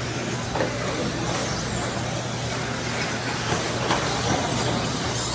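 A pack of 1/10-scale electric RC stadium trucks racing on a dirt track, their brushless motors whining up and down as they accelerate and brake, over a steady low hum.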